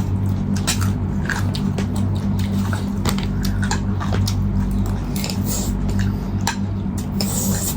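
Eating sounds: chewing with many short clicks, over a steady low hum.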